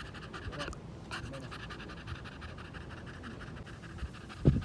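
Beagle panting in quick, even strokes to shed heat on a hot day. There is one low thump near the end.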